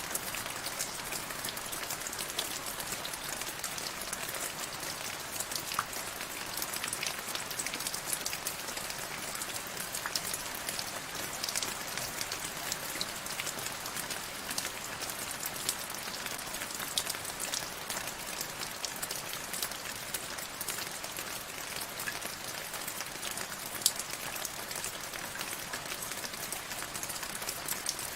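Steady rain pattering on a surface, a dense even hiss flecked with countless small drop ticks, with one sharper drop about three-quarters of the way through.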